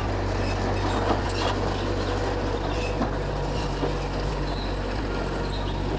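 Mitsubishi G2 bulldozer working, its diesel engine running at a steady drone, with a few light knocks about a second in and again around three seconds.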